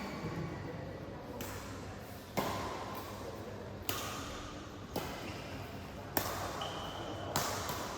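Badminton rally: rackets striking the shuttlecock about six times, roughly one sharp hit every second or so.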